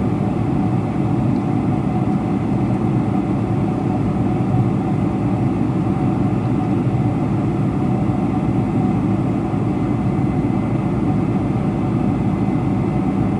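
Steady drone of a Boeing 747-400's four jet engines and the rushing air, heard inside the passenger cabin.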